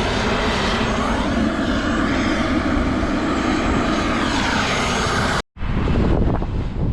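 Aircraft engine running loud and steady with a slowly shifting pitch, cut off abruptly about five and a half seconds in, followed by wind-blown engine noise.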